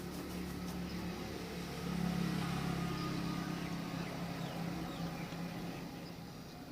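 A motor vehicle's engine passing nearby: a low hum that swells about two seconds in and fades toward the end. A few faint bird chirps sound over it.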